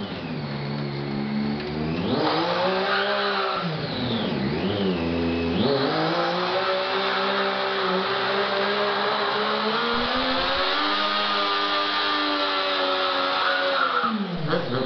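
Triumph 675 three-cylinder sport bike engine revved high and held there during a burnout, the spinning rear tyre hissing underneath. The revs climb about two seconds in, dip and climb again around five seconds, then fall away near the end.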